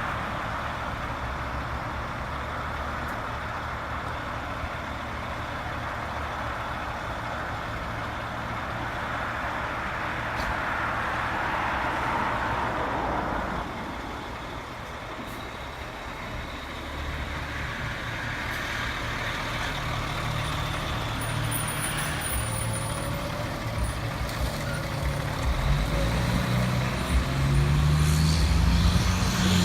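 Fire engine's diesel engine running, its low rumble growing louder over the last ten seconds as the truck draws near.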